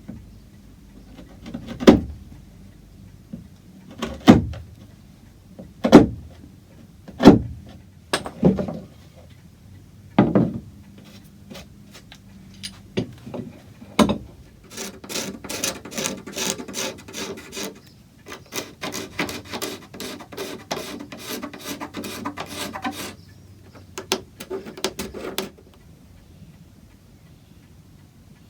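Hand woodworking on small wooden blocks. First comes a series of sharp knocks on wood a second or two apart. Then about ten seconds of quick back-and-forth rasping strokes, as in filing or sanding wood, with a brief pause midway.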